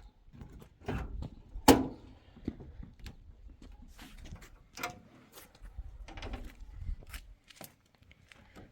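Scattered knocks and clicks, the loudest a single sharp knock just under two seconds in, over a low rumble.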